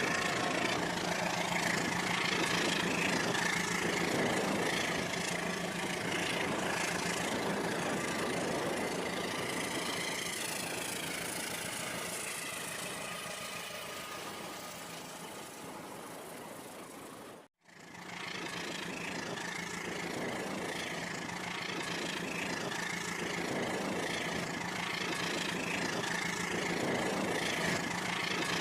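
Rail King remote-control toy train running on its track: a steady motor hum with a regular, repeating clatter. The sound cuts out suddenly for a moment about two-thirds of the way through, then carries on.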